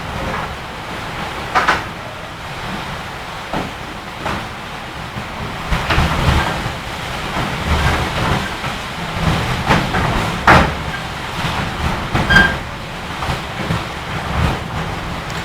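Strong gusting wind buffeting the microphone, a steady low rumble that swells and eases, with repeated sharp knocks and rattles, the loudest about ten and twelve seconds in.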